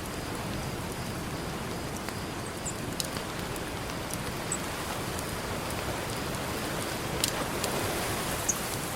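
Campfire crackling, with scattered sharp pops and snaps over a steady wash of ocean surf that swells a little near the end.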